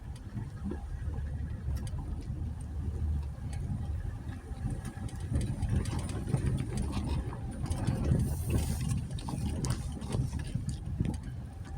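Jeep Gladiator's engine running at low revs as it crawls over a rough dirt trail. Scattered knocks and clicks from the rough ground become more frequent from about five seconds in.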